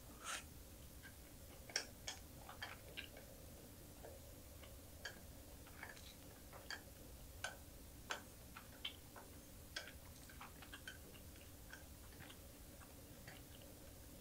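Chewing a mouthful of small anchovies close to the microphone: faint, irregular crisp clicks and crunches, thinning out toward the end.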